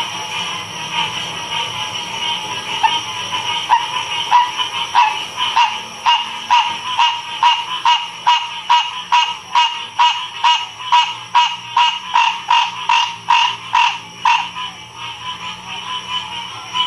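Chorus of frogs calling steadily, with one nearby frog repeating short, loud calls about three times a second; the calls start a few seconds in and stop about three seconds before the end.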